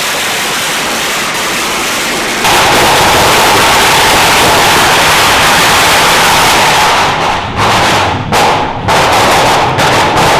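Firecrackers going off in the street, a dense, loud crackle for about seven seconds that breaks into separate sharp bangs near the end.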